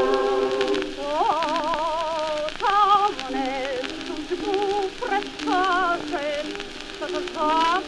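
Early acoustic gramophone recording of a Gypsy choir romance: a single melodic line with heavy vibrato moves over sustained lower notes, with no words sung. Steady surface crackle from the old disc runs under the music.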